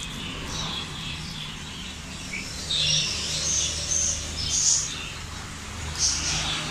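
Small birds chirping on and off in short high calls, over a faint steady low hum.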